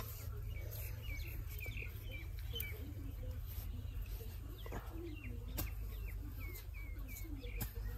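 A small bird chirping in quick runs of short repeated notes, about three or four a second, over a low steady rumble, with a few sharp clicks near the middle and end.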